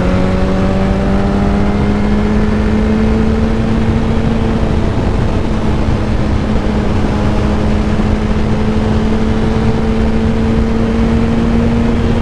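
Yamaha R1 sport bike's inline-four engine running at a steady cruise, its note rising slightly in the first couple of seconds and then holding. A constant rushing noise runs underneath.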